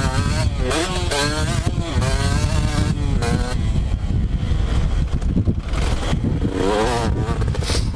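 Two-stroke motocross bike engine revving hard, its pitch rising and falling quickly as the throttle opens and closes, over heavy low rumble and wind on the microphone. The engine note eases off for a couple of seconds in the middle and climbs again near the end.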